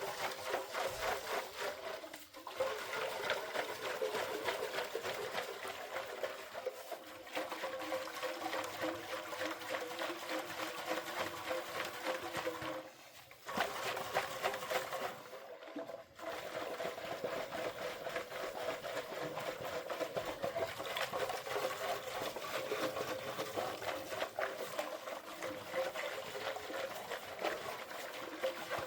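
Water sloshing back and forth inside a rusty steel fuel tank as it is shaken by hand to loosen rust and debris, in a fast, steady rhythm that stops briefly a few times.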